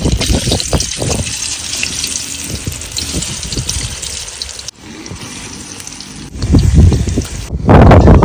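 Water being poured and splashing, with soft knocks, cut off abruptly a little over four and a half seconds in. A loud low rumble follows near the end.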